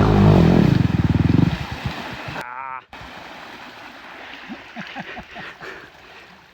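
Small motorcycle engine running close and loud, then dropping away after about a second and a half. A quieter steady rushing noise and faint voices are left behind.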